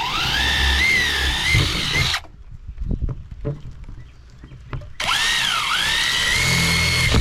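Power drill boring drain holes into an old dishwasher, in two runs. The first winds up with a rising whine and stops about two seconds in. The second starts about five seconds in, its pitch dipping as the bit bites and then picking back up.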